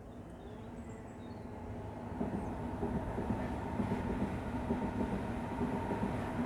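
A train approaching, its rumble growing louder over the first two seconds, then running past steadily with a low hum over the rumble of the wheels.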